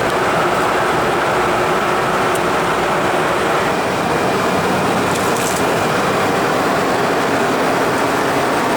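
Steady rushing cabin noise of an Embraer Phenom 300 business jet in flight.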